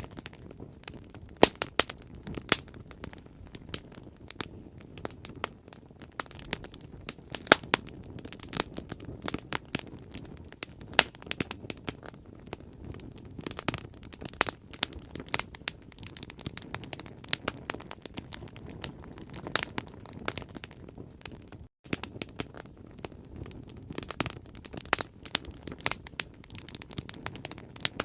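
Bonfire crackling: irregular sharp pops and snaps from burning wood over a steady low rush of flame. The sound drops out for a split second about 22 seconds in.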